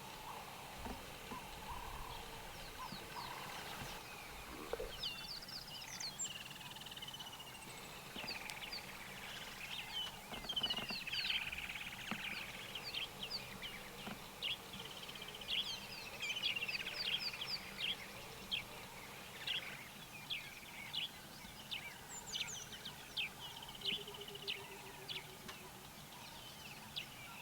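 Several wild birds calling and singing together: many quick chirps, whistles and short trills, busiest in the middle, over a faint steady outdoor background.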